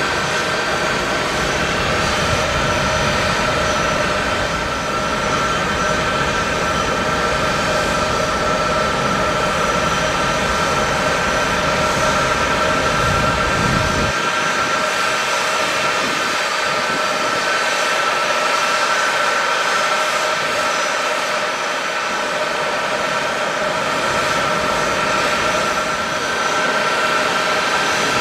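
The four Pratt & Whitney F117 turbofans of a Boeing C-17 Globemaster III run steadily on the ground, a loud jet roar with a steady high whine over it. A low rumble beneath drops out suddenly about halfway through.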